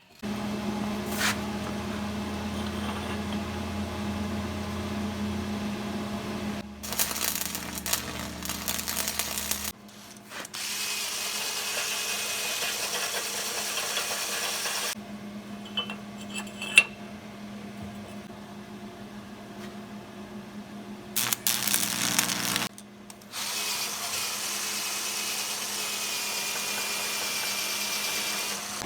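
Electric power tool running on steel tubing, a steady motor tone with a high hissing grind in some stretches. It comes in several short clips that cut in and out abruptly.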